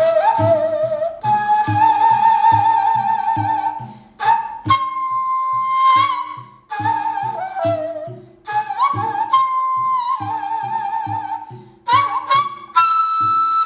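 Daegeum playing a slow melody of long held notes with wide vibrato and bends, over a steady rhythmic accompaniment. The membrane (cheong) buzz that gives the daegeum its reedy edge catches a little less than the player would like.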